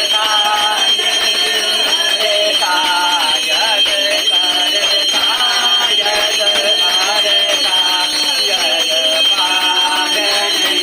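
Devotional puja music: a sung melody over a steady high ringing tone that holds throughout.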